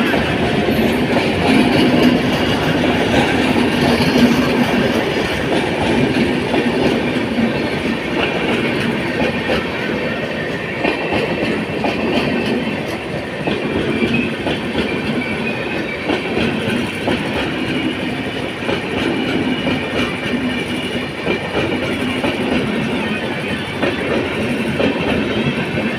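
Express passenger train running through a station without stopping, a steady loud rumble with its wheels clattering over the rail joints.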